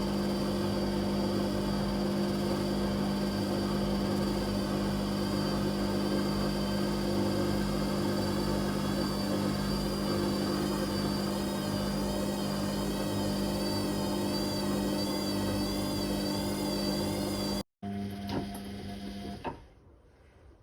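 Whirlpool Indiana 1400 washing machine running, a steady motor hum with a high, slightly wavering whine. Near the end it cuts off abruptly, a quieter hum carries on for about two seconds and stops, leaving faint clicks.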